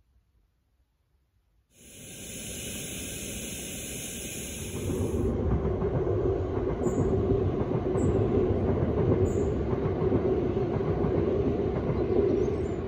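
Train crossing a railway bridge. It starts about two seconds in with a high hiss, then from about five seconds in becomes a louder low rumble with a steady hum and faint high clicks every second or so.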